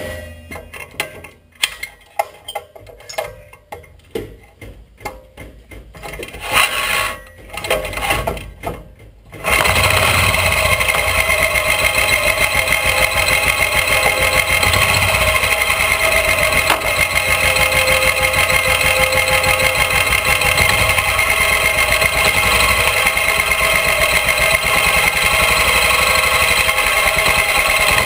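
Royal Enfield motorcycle engine running steadily with a fast, even beat, coming in abruptly about nine seconds in after a spell of scattered knocks and clicks.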